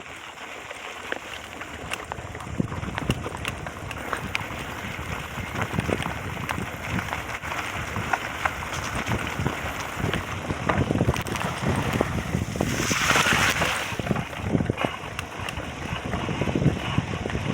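Wind buffeting the microphone with a steady rumble and many irregular knocks and rattles, swelling into a louder rush about two-thirds of the way through.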